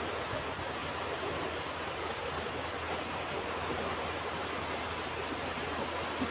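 Ocean surf washing on a beach: a steady, even rush of waves with no single breaker standing out.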